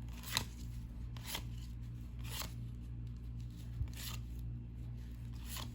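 Cardboard trading cards being flipped through one at a time, a short swish of card sliding off card five times, about once a second, over a steady low hum.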